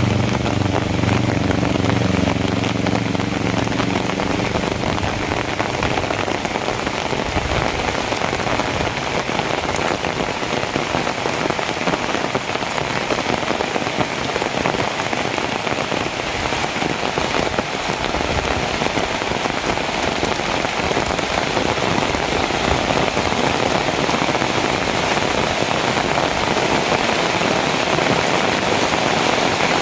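Heavy rain falling steadily, a dense even hiss. A low engine hum from a vehicle fades out about four seconds in.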